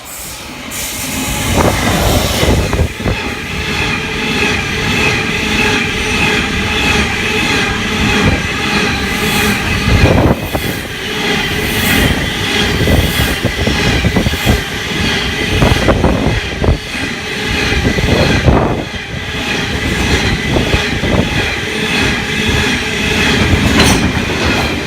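A long limestone freight train rolls past at close range, hauled by diesel locomotives: a steady loud rumble of wagons, with repeated clacks from the wheels over rail joints and a steady high wheel squeal.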